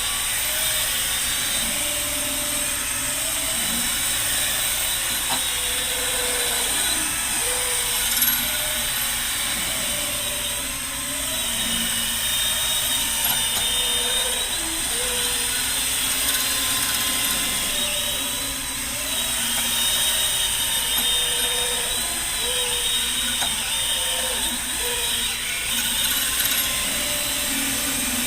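Electric drill spinning a homemade cleaning tool inside a motorcycle fork tube to scour out rust, running steadily with its pitch wavering as the tool loads and frees up.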